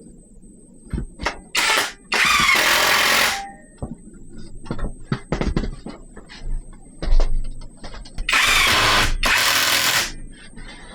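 A handheld power tool, a drill driving screws, runs in two pairs of bursts: a short one then one of about a second, then two of about a second each. Scattered knocks and taps of wood come between them.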